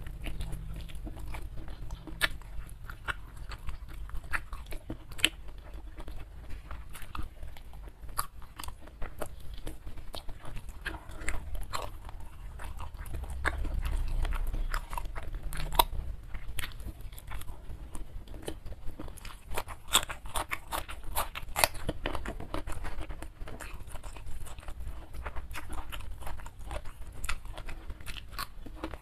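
Close-miked chewing and biting of fried chicken wing and rice, eaten by hand: a steady stream of sharp, wet mouth clicks and smacks.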